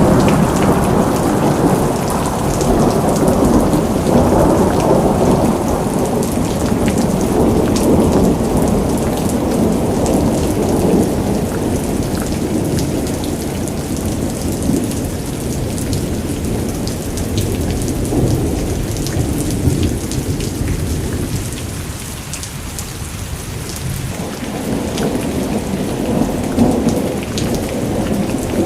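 Heavy cyclone rainstorm: rain pouring and pattering while strong wind surges in gusts. The gusts ease about three quarters of the way through, then build again.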